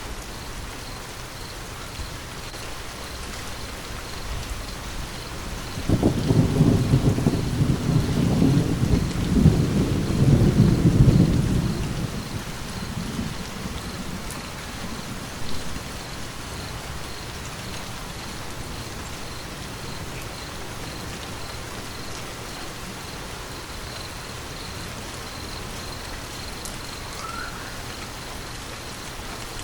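Steady rain falling, with a roll of thunder that breaks in suddenly about a fifth of the way in, rumbles low for several seconds and fades out, before the rain carries on alone.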